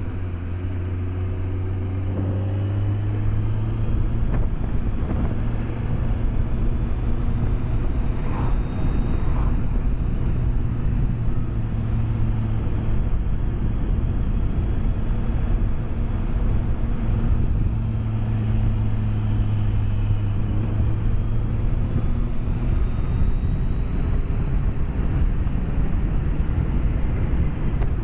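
BMW K1200S's inline-four engine running at a steady cruise, its note shifting a few times, under steady wind and road noise heard from a microphone inside the rider's helmet.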